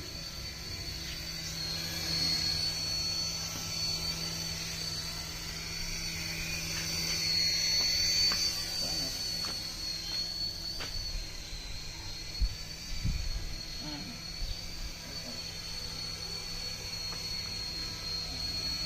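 A small electric motor whining steadily at a high pitch, the pitch wavering slightly, with a few clicks and low knocks about two thirds of the way through.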